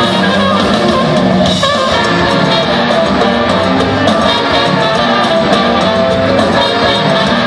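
Live rock band jamming, with electric guitar to the fore over a full band with drums; steady and loud throughout.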